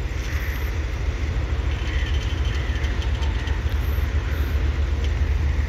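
Passenger train carriages rolling past on the next track: a steady, even noise of steel wheels running on the rails, heavy in the bass.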